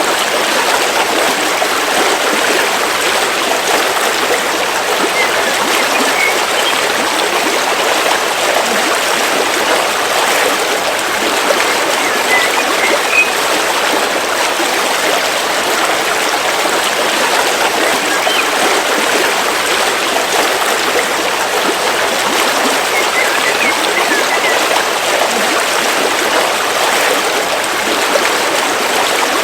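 River water flowing steadily over rocks, an even rushing and babbling, with a few faint bird chirps now and then.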